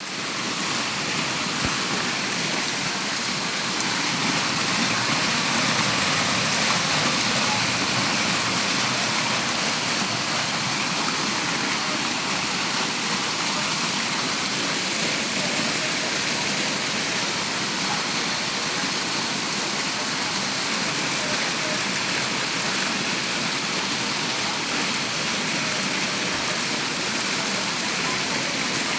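Heavy summer-storm rain with running water: a steady, even rushing noise that holds for the whole stretch without a break.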